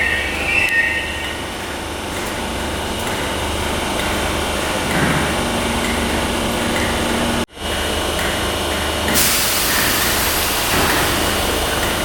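Merseyrail PEP electric multiple unit at the platform: high wheel squeal dies away about a second in, then steady train running noise. The sound cuts out for an instant about halfway through, and a louder hiss comes in shortly after.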